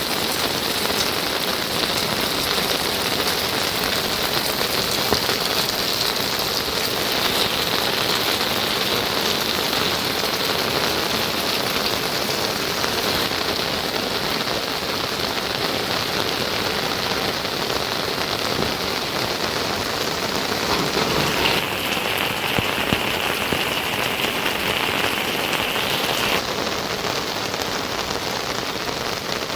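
Steady rain falling, a continuous hiss of drops whose character shifts abruptly a few times.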